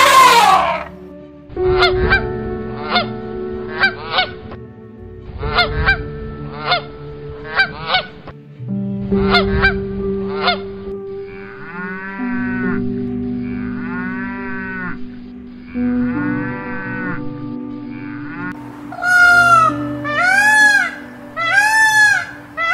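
A sequence of animal calls: an elephant trumpet dying away at the very start, then clusters of short, sharp honks, three or four at a time, each cluster about a second apart. Then three drawn-out calf bawls, each about a second long, and near the end loud repeated calls of an Indian peacock, about one a second, each rising and falling.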